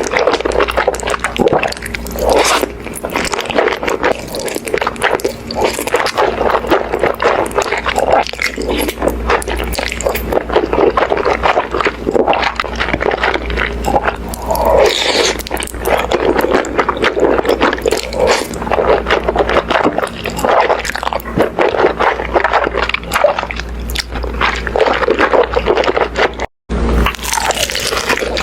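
Close-miked mukbang eating: steady wet chewing with squishing, crunching and scraping, cutting out for an instant near the end.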